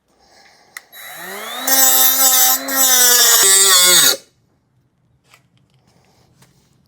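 An angle grinder spins up and cuts through steel rebar with a loud, hissing screech for about two and a half seconds. It is then switched off, and its whine falls away just past four seconds in.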